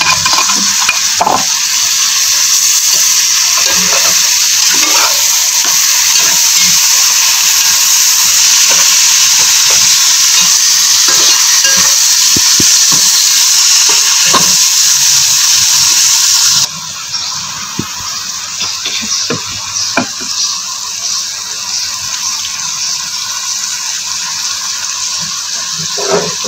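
Fresh tomato paste sizzling in hot oil on fried onions in a pot, with a plastic spatula stirring and scraping against the pot. The sizzle is loud, then drops off abruptly about two-thirds of the way through, leaving quieter frying and stirring.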